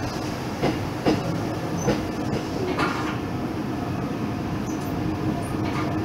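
Keisei 3500-series electric train running, heard from inside the passenger car: a steady rumble with a few sharp wheel clicks over the rails in the first three seconds.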